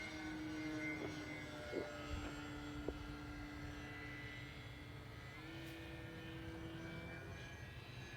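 Electric motor and propeller of a foamboard RC airplane running steadily in flight, a thin whine whose pitch steps up a little about five seconds in.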